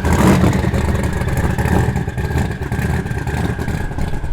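Car engine rumbling at low speed as a performance car rolls past, with a deep, steady exhaust note.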